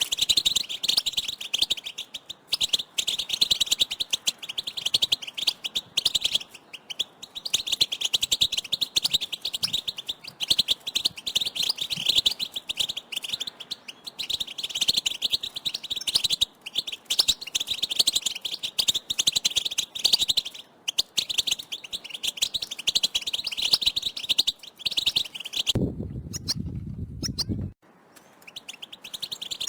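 A group of European goldfinches giving their rapid, overlapping twittering calls, the excited contact call of goldfinches in breeding condition. Near the end the calling breaks off for about two seconds and a low hum comes in, then the chirping resumes.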